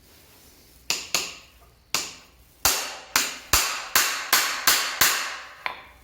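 A series of about eleven sharp knocks, each ringing off briefly, starting about a second in and quickening to two or three a second before stopping near the end.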